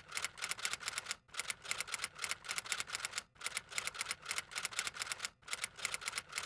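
Typing sound effect: keys clacking rapidly and evenly, about eight strokes a second, in runs broken by brief pauses every second or two.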